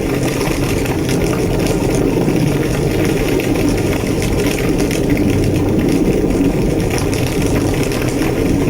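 A large structure fire burning with a steady, low roar and scattered faint crackles.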